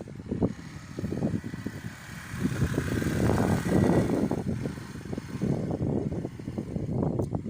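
Motorcycle engine running, its sound rising and falling unevenly, mixed with wind buffeting the microphone.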